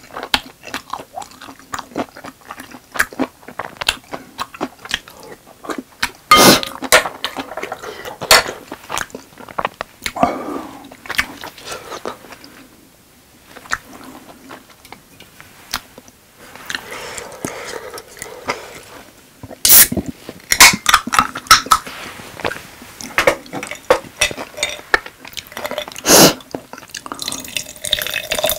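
Close-miked eating sounds: wet chewing and mouth smacks of spicy rice cakes, with sharp clicks and knocks of a wooden spoon against a glass bowl, the loudest a few seconds apart.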